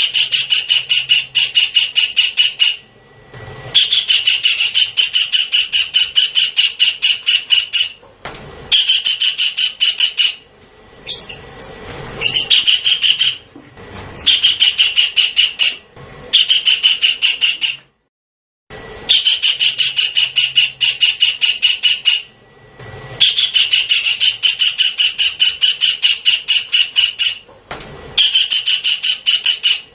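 Javan kingfisher calling: loud, fast rattling runs of sharp, high notes, each run lasting one to four seconds and repeated over and over with short pauses between.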